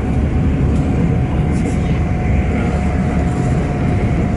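Passenger train running at speed, heard from on board: a steady low rumble of wheels on rails, with a faint steady whine.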